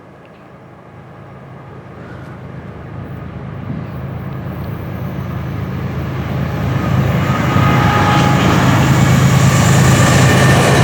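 GE ES40DC diesel-electric locomotive at the head of a freight train approaching, its engine growing steadily louder. Thin high tones join in near the end.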